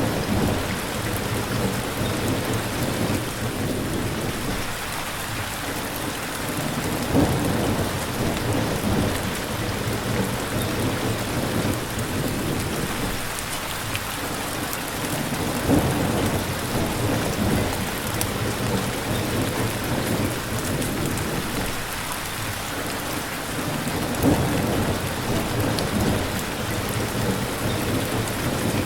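Steady, heavy rain falling, an even hiss throughout. Low rumbles swell up three times, about every eight seconds.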